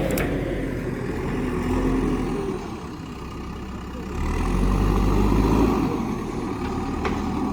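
Heavy diesel engine running with a steady low drone, swelling louder about four seconds in and easing off again near the end.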